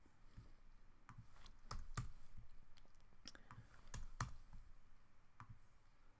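Faint computer mouse clicks, a dozen or so at irregular spacing, the sharpest coming in close pairs about two seconds and four seconds in.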